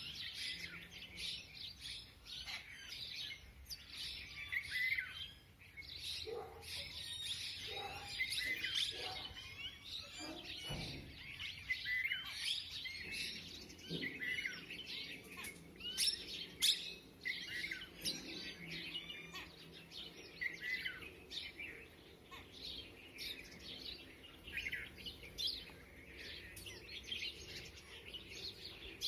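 A flock of birds chirping and calling without a break, many short calls overlapping.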